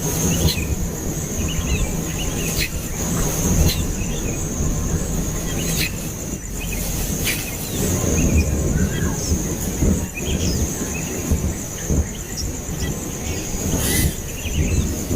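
Short, scattered chirps of young birds over a continuous high-pitched insect trill, with steady low rumbling noise and a few sharp clicks.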